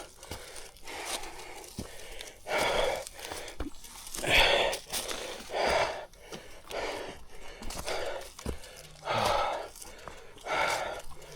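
A man breathing hard and loud, heavy breaths coming about every second and a half: out of breath from walking a steep climb.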